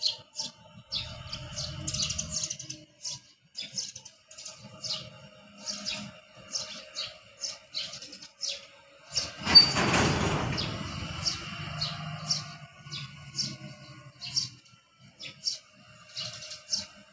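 Small birds chirping over and over in short high notes, above a low rumble from the shunting diesel locomotive that comes and goes. About nine and a half seconds in, a loud rushing noise swells and fades over a couple of seconds.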